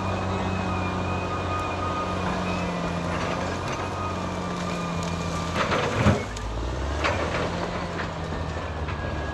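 Caterpillar D6R XL bulldozer working, its diesel engine running steadily with a thin high whine over it. A couple of loud clanks come about six seconds in and again a second later, and the engine note drops after the first.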